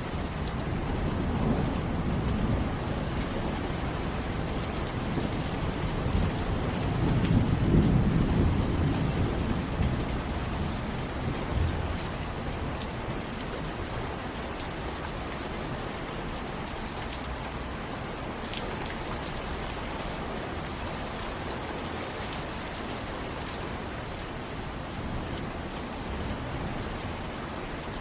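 Steady rain falling, with a low roll of thunder that swells about a quarter of the way in and fades away within a few seconds.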